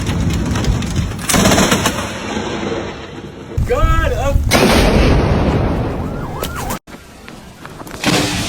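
Close lightning thunder: several sudden cracks, each followed by a low rumble that dies away. The rumble breaks off abruptly just before a final crack near the end.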